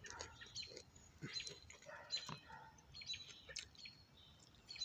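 Close-up chewing: irregular wet mouth clicks and smacks as a mouthful of food is eaten, with faint short bird chirps among them.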